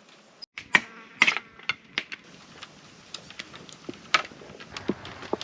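Irregular sharp clicks and snaps of wood, over a thin, steady, high-pitched insect drone. There is a brief break about half a second in.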